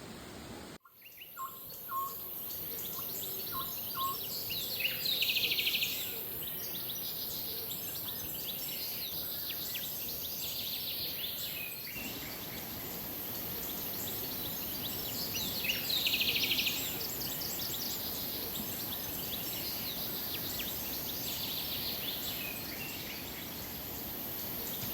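Birds singing over a steady hiss of flowing water, with a loud trilled phrase about five seconds in and again about sixteen seconds in.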